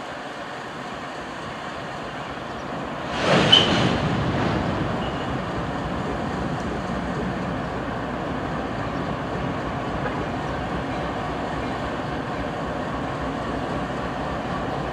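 Approaching Norfolk Southern diesel freight locomotive and its train rumbling steadily. A sudden loud burst comes about three seconds in.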